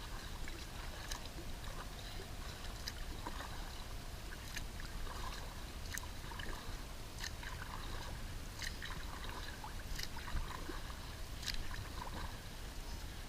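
Kayak paddle strokes: water splashing and dripping off the blades, with a sharp splash about every second or so.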